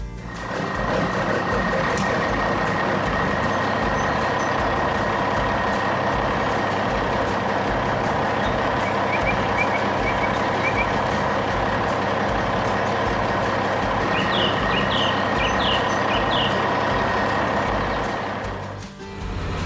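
A heavy vehicle engine running steadily, with a few short bird chirps twice midway.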